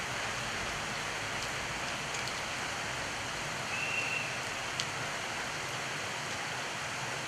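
Heavy rain falling in a steady hiss, with a few faint drop ticks and a brief high squeak about four seconds in.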